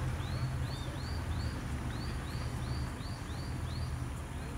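A bird calling a quick series of short, high, arched notes, about ten in three and a half seconds, over a steady low hum.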